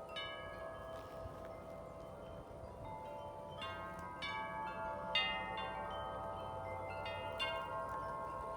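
Several large tuned metal-tube wind chimes ringing in gusty wind, layered sustained tones with fresh clusters of strikes every second or so, the busiest stretch near the middle.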